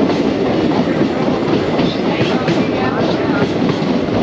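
Passenger train running at speed, heard from aboard the moving coach: a steady rumble of wheels on rail with irregular clatter from the track.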